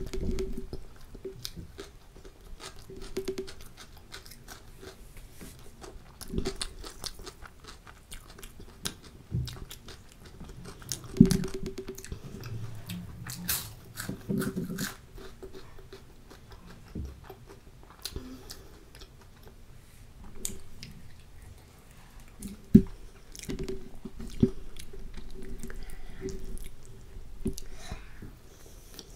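Close-miked eating sounds: wet chewing of chickpea curry and kulcha bread, broken by many sharp crunchy bites and crackles, with two louder crunches.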